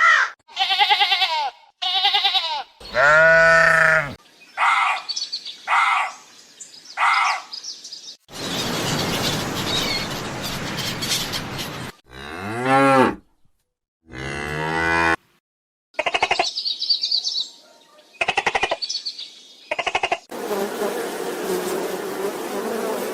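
Short animal-call clips cut one after another. There are wavering sheep-like bleats, bird chirps and calls, and a cow mooing with a low call that falls in pitch, about twelve seconds in.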